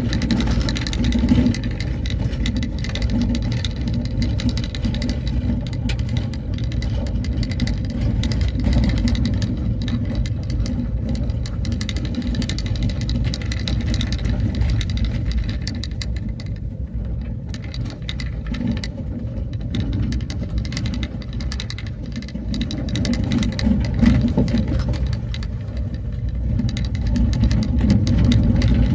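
Vehicle driving steadily along a road: low engine and road rumble with constant light rattling and crackling.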